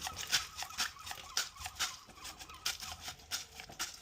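Irregular soft clicks and rustles, a few each second, as a pet seagull is handled and picked up.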